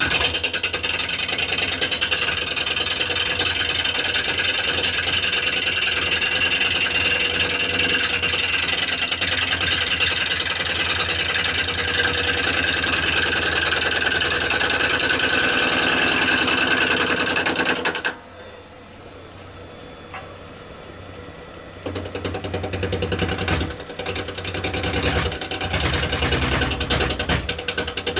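Bowl gouge cutting a rowan bowl blank spinning on a wood lathe: a loud, fast rhythmic clatter of the tool on the turning wood. The cut stops about two-thirds of the way in, leaving only the quieter lathe running for a few seconds, then resumes in short stop-start passes.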